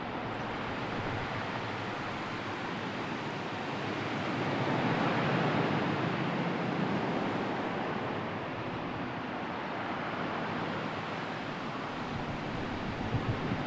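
Sea surf washing steadily, swelling to a louder surge about four to six seconds in and then easing back.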